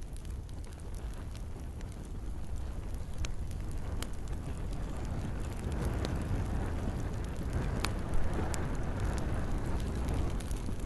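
Campfire crackling: scattered sharp pops and snaps over a steady low rumble and hiss, with one louder pop late on and the hiss swelling somewhat in the second half.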